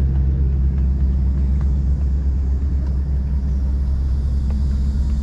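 A boat engine running steadily with a low, even rumble.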